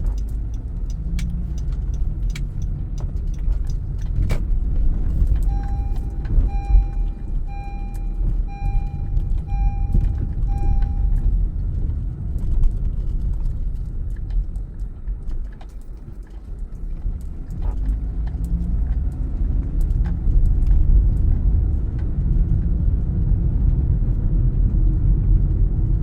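Car being driven, with a steady engine and road rumble heard from inside the cabin. A few sharp ticks come early, and a run of about six evenly spaced beeps, roughly one a second, comes a few seconds in. The rumble eases briefly past the middle and then builds again.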